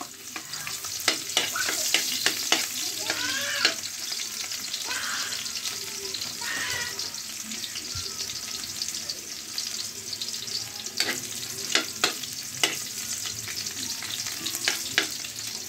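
Chopped onion and garlic sizzling in hot oil in a wok, with a steady hiss. Sharp clicks of a metal spatula against the pan come in two spells, about a second in and again after about eleven seconds, as the onion is stirred.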